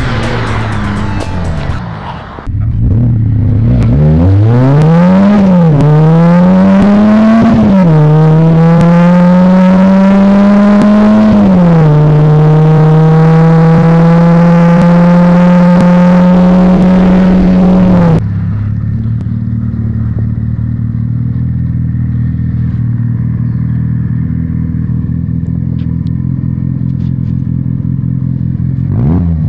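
Fiat 126p with a swapped 1108 cc 1.1 SPI four-cylinder engine accelerating hard through the gears. The engine note climbs and drops back at three gear changes, then holds at steady high revs for about six seconds. About eighteen seconds in, the sound cuts abruptly to a quieter, lower steady engine note, and it revs again at the very end.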